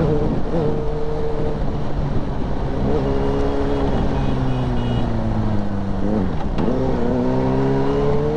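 Suzuki GSR600's inline-four engine through an Akrapovic exhaust, heard from the moving bike: the engine note sinks slowly as the throttle eases, dips briefly about six and a half seconds in, then rises again as the bike pulls away near the end.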